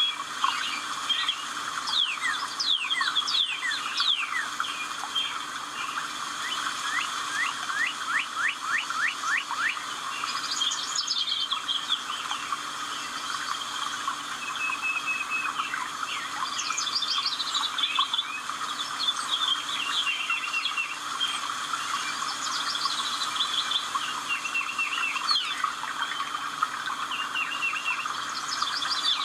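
Several songbirds singing, with quick runs of falling whistled notes and chirping trills.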